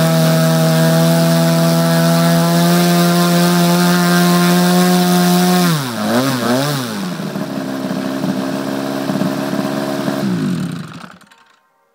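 3W four-cylinder boxer two-stroke model aircraft engine running at high speed, then throttled back with a few quick dips and rises in speed about six seconds in, running on at a lower speed and then shutting down near the end.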